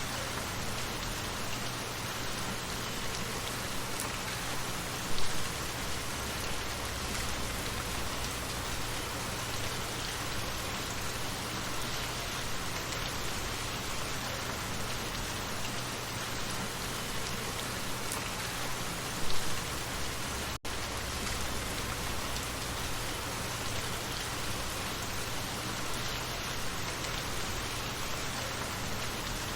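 Light rain falling steadily, an even patter of drops. Two brief louder knocks stand out, one about five seconds in and one a little before the twenty-second mark, and the sound cuts out for an instant just after the second.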